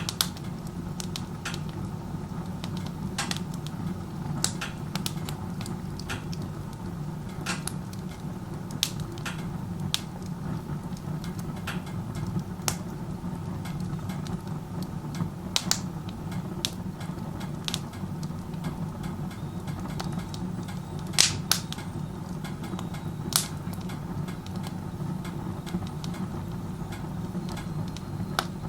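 Wood fire burning in a wood stove run with its door open: a steady low roar of strong chimney draft, with irregular crackles and pops from the burning wood. The draft is so strong that the uploader judges the burn inefficient.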